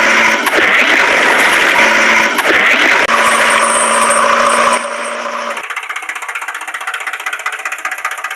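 Engine sound, loud and noisy with a steady drone. About five seconds in it cuts abruptly to a quieter engine idle with a fast, even rattle.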